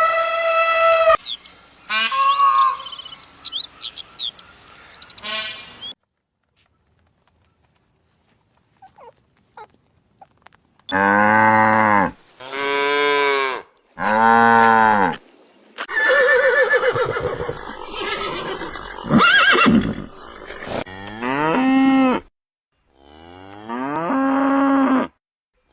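Cattle mooing: three long moos in a row about eleven seconds in, each rising and falling in pitch, with more calls later and other shorter calls early on. A stretch of near silence comes about six seconds in.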